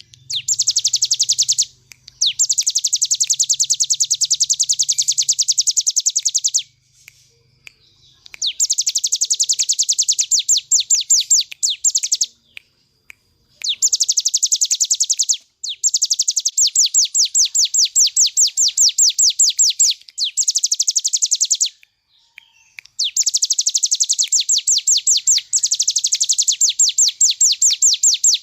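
Ciblek gunung, a prinia, singing in rapid machine-gun-like 'ngebren' trills: long runs of fast, evenly repeated high notes lasting several seconds each, broken by short pauses.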